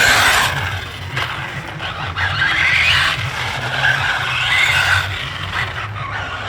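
Radio-controlled car's electric motor whining up and down in pitch as it speeds up and slows, with tyres skidding.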